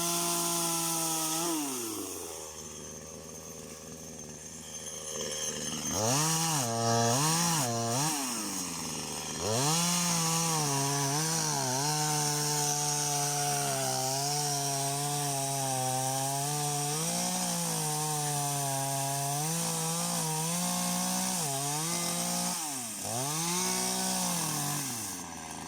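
Chainsaw felling a tree that is rotten inside. The engine drops to idle about two seconds in and is blipped three times. It then holds at high revs under cut for about twelve seconds, dips, and revs up once more near the end.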